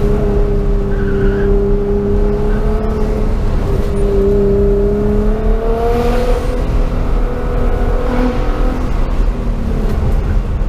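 Nissan GT-R's engine heard from inside the cabin, pulling steadily through the curves over road and tyre rumble. Its note rises about halfway through, then eases back.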